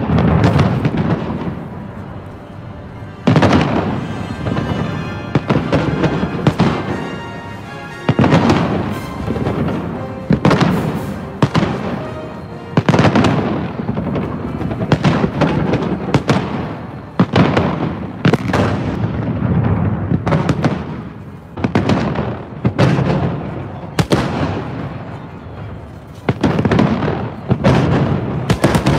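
Fireworks display: aerial shells bursting in a long run of loud bangs, one every second or two, each dying away in a rumbling echo.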